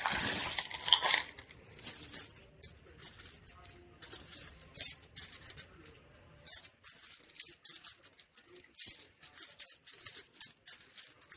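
Coins clinking and jingling in a run of short, irregular metallic clicks, typical of coins being handled and fed into a self-serve car wash's coin slot. A louder jangle comes in the first second.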